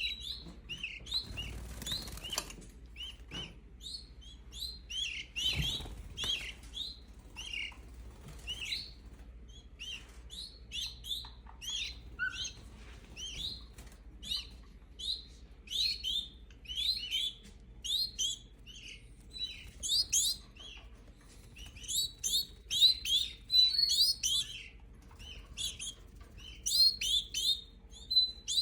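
Five-week-old young canaries chirping at feeding time: a steady run of short, high chirps, with a couple of brief wing flutters in the first few seconds.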